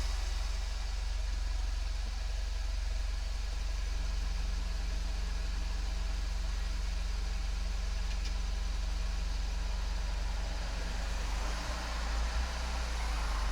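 Volkswagen Golf 7 GTI's turbocharged four-cylinder exhaust, fitted with a Cox aftermarket muffler and chamber, running steadily at low revs with a deep drone. There is a brief swell in level near the end.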